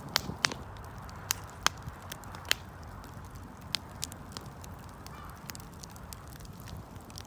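Wood campfire crackling: irregular sharp pops and snaps, several loud ones in the first few seconds and sparser ones after, over a low steady rush of the burning fire.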